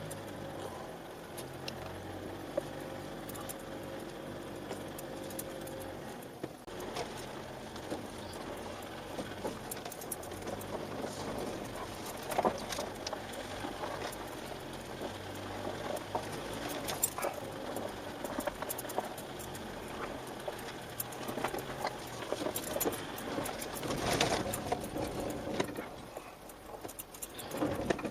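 A vehicle running with a steady low hum, with frequent clicks and rattles that grow busier as it goes.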